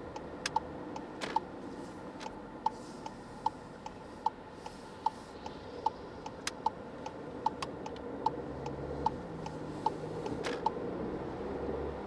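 Car turn-signal indicator ticking steadily, about one tick every 0.8 seconds, over the low running noise of the car. A few sharper, separate clicks fall among the ticks, and the low road noise grows in the second half.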